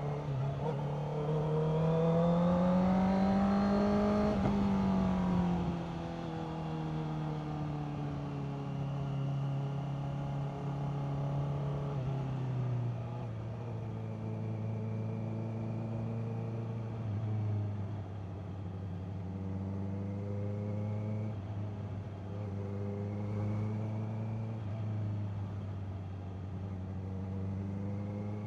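Honda CBR650R's inline-four engine under way: it pulls through a gear, its pitch and loudness rising for about four seconds, then eases off. It settles into a steady cruise at a lower pitch, with a further drop in engine speed about twelve seconds in.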